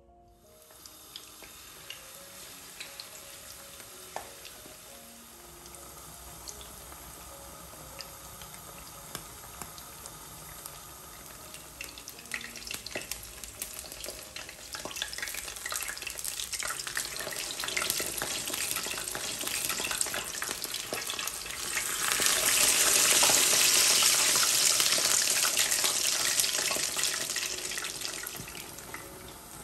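Battered king oyster mushroom slices shallow-frying in hot oil: a steady sizzle full of small pops and crackles. It grows louder through the middle, is loudest a little after two-thirds of the way in, then eases off near the end.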